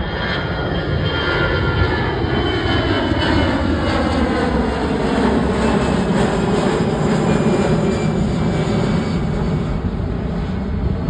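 Airbus A320 jet on take-off, its twin turbofan engines running loud with several whining tones that slide slowly down in pitch; the sound swells to its loudest about halfway through and eases slightly toward the end.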